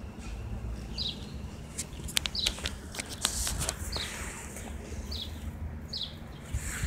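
A bird chirping over and over, a short high falling note about once a second. A cluster of sharp clicks and rustles comes in the middle, over a steady low rumble.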